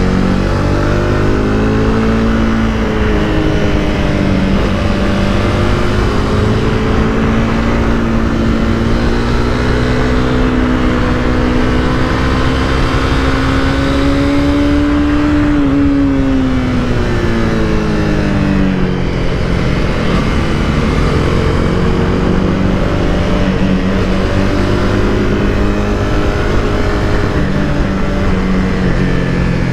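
Honda CBR300R's single-cylinder engine pulling steadily under way, its pitch rising slowly for about a dozen seconds, then dropping as the bike slows, and climbing again near the end. Heavy wind noise runs underneath.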